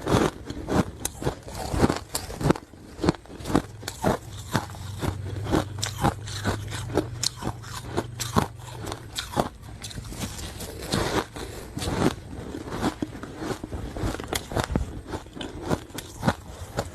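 Close-up crunching of hard ice being bitten and chewed: many sharp, irregular cracks and crunches. A steady low hum runs underneath through the middle stretch.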